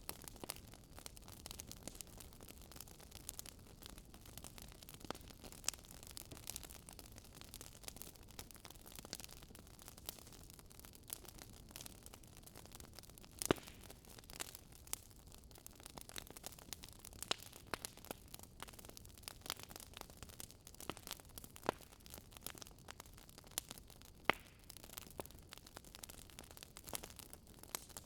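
Fireplace fire crackling: irregular small pops and snaps over a soft hiss, with one sharper pop about halfway through.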